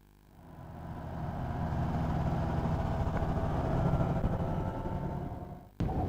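Light aircraft's piston engine running steadily. It fades up over the first couple of seconds and is cut off abruptly near the end.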